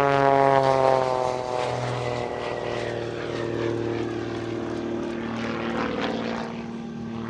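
Pitts S-2B aerobatic biplane's propeller engine flying past, its pitch dropping over the first two seconds as it goes by, then running steadily and a little quieter.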